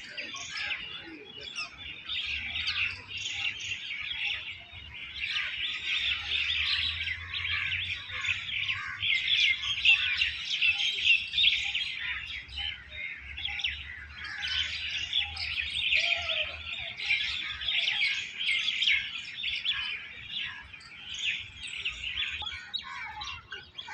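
Many small birds chirping at once: a dense, continuous chorus of rapid, overlapping high chirps that swells and eases.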